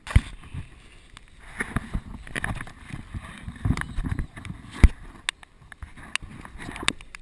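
A child running and sliding on a wet slip and slide: scattered thumps and the splash and swish of water on the plastic, with two hard thumps, one right at the start and one about five seconds in.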